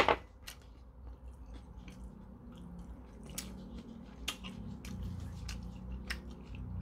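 A person chewing food close to the microphone, with scattered short mouth clicks; a single sharp click right at the start is the loudest sound.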